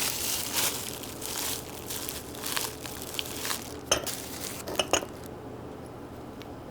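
Rustling and crinkling handling noise with a few sharp clicks, the loudest about four and five seconds in, then it goes quiet.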